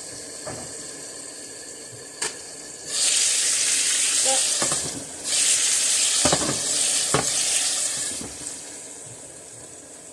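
Steak sizzling loudly in a hot frying pan, in two stretches of about two and three seconds with a short break between, and a few knocks of utensils on the pan.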